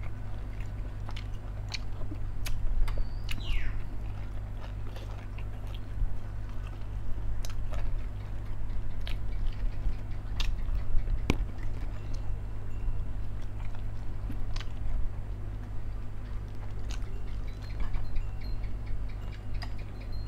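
A man chewing and smacking a mouthful of chicken, with scattered sharp clicks of a metal spoon on the plate, over a steady low hum.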